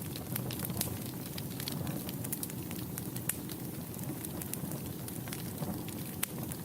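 Wood fire burning in a fireplace: a steady low rumble of flame with frequent irregular sharp crackles and pops, one louder pop near the end.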